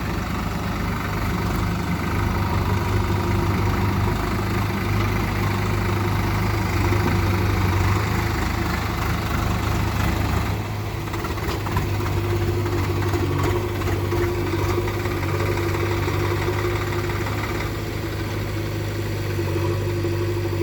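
Swaraj 744 XT tractor's diesel engine running steadily, its note shifting about ten seconds in.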